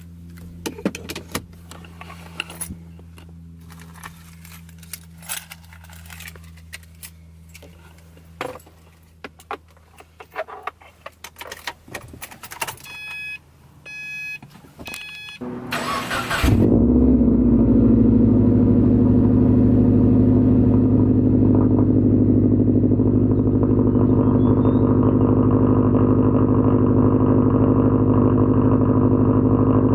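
Clicks and knocks of someone settling into a car, a short repeating electronic chime, then a Subaru WRX's flat-four engine cranks and starts about sixteen seconds in and runs at a steady idle.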